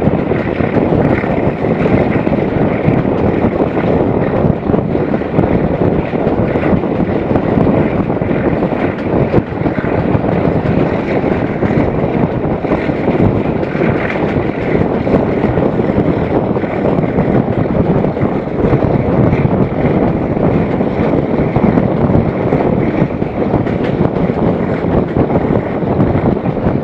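Steady rush of wind on the microphone over the running rumble of a passenger train's coaches at speed, heard from the window of the moving train.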